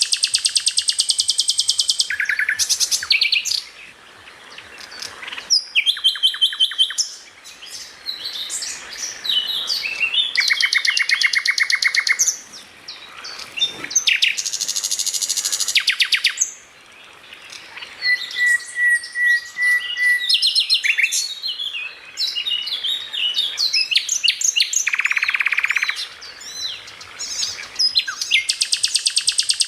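Songbird singing a loud, varied song: fast trills and rattles mixed with sharp chirps and whistled notes, coming in bursts with brief pauses.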